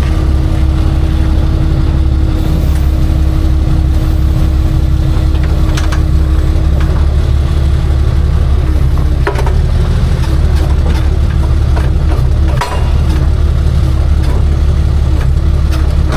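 Tow truck's engine idling steadily, with a few light metal knocks over it.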